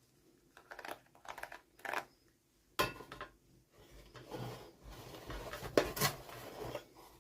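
Hands unboxing small plastic toys: irregular rustling of packaging with light clicks and taps, the sharpest clicks about three seconds in and again near six seconds.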